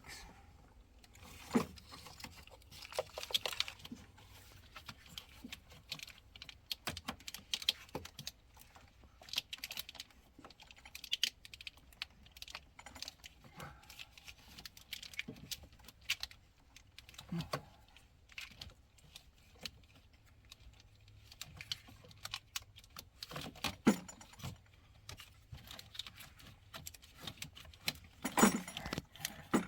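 Irregular small clicks and rattles of a wiring cable and its plastic connector being worked and pushed into place at a car's fuse box, with a few louder knocks.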